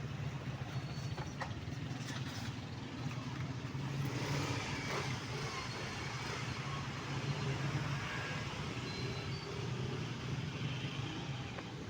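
Road traffic: motor vehicles running with a steady low engine hum, and one vehicle passing louder about four seconds in.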